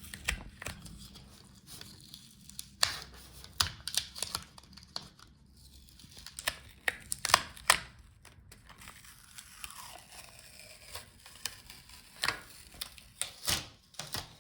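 Covers over a laptop's motherboard components being peeled off, making irregular sharp crackles, clicks and crinkling.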